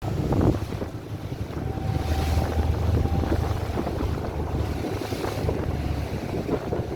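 Boat under way at sea: a steady low rumble with wind buffeting the microphone and water washing past.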